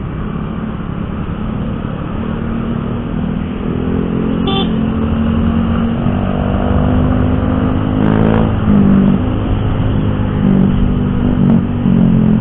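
Yamaha R15 motorcycle's single-cylinder engine running under way, getting louder as it accelerates, its pitch climbing and then dropping several times through gear changes. A brief horn beep about four and a half seconds in.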